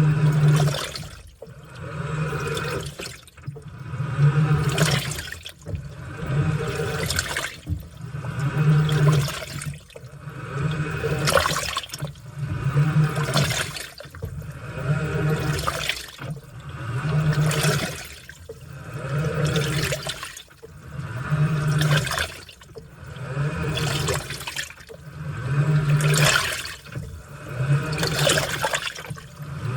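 Washing machine on its wash cycle: water and laundry slosh in the turning drum in swells about every two seconds, with the motor humming low during each turn.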